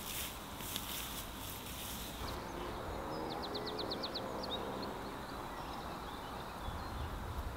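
Outdoor field ambience: a low wind rumble on the microphone, with a crackling rustle in the first two seconds. A bird gives a quick rattling call of about eight notes around three seconds in.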